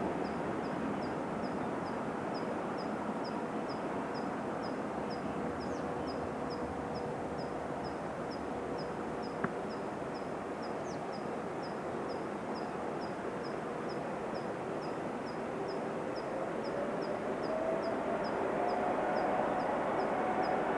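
Jet airliner engines heard over the airfield: a steady rushing noise with an engine whine, the whine rising in pitch and the noise growing louder in the last few seconds. A regular high chirp repeats about twice a second throughout.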